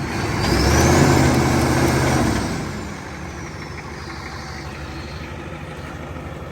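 IDI diesel V8 revving under load for about two seconds, with a high whine rising and falling in pitch, then settling back to idle. The owner suspects the engine is blown, with little compression on most cylinders.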